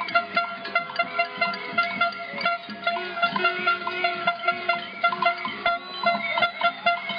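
Protest noise-making: a dense racket of rapid, uneven banging and clanging strikes over steady metallic ringing tones, as from cowbells, pots and other noisemakers struck by a crowd.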